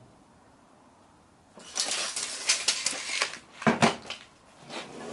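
Retractable screen parts handled on a workbench: after a quiet start, about two seconds of dense scraping and rubbing, then a few sharp knocks and scattered clicks.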